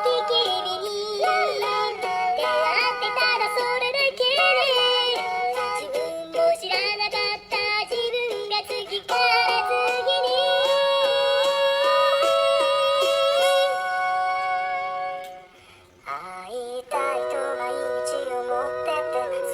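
A pop ballad sung by a synthesized, cat-like voice tuned to the melody. A long steady note is held near the middle, then there is a short break before the singing picks up again.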